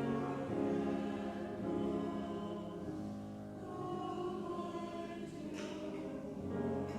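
Church choir singing in sustained chords with instrumental accompaniment.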